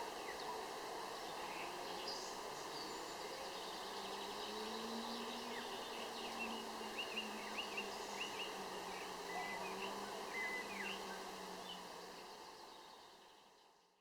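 Outdoor countryside ambience: a flying insect buzzes at a steady low pitch that wavers slightly, from about four seconds in until about eleven, while birds chirp in short calls. Everything fades out near the end.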